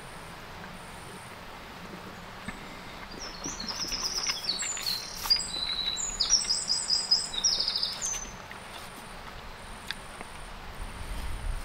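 A songbird singing one quick phrase of high, clear notes and trills, starting about three seconds in and stopping about eight seconds in, over steady outdoor background noise.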